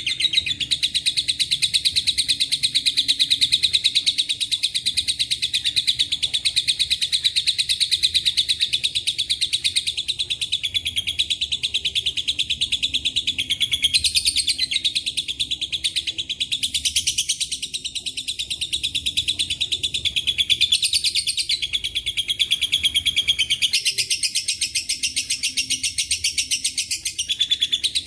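Lovebird singing a long ngekek: a rapid, high-pitched chattering trill that goes on without a break, its pattern shifting several times. The song carries phrases taken from the cililin and the canary.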